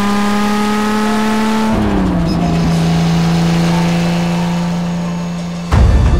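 Lister-Jaguar Knobbly sports-racing car's engine pulling with its revs slowly rising, then dropping sharply about two seconds in and holding steady. Music cuts in near the end.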